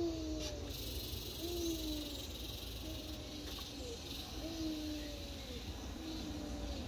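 An animal calling: about five short, slightly falling low calls repeating roughly every second and a half, over a steady low rumble.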